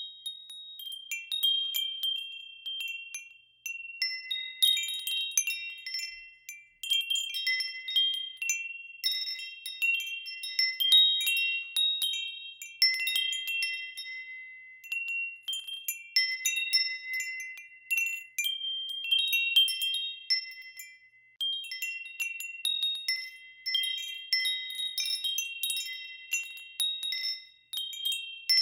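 Wind chimes ringing: several high notes struck again and again at irregular moments, overlapping, each ringing on and fading away.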